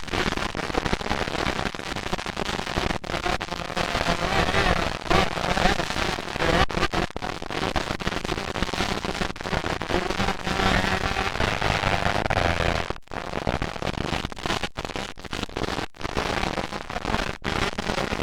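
Motocross dirt bikes running on the track, engines revving up and down with a crackly, popping edge.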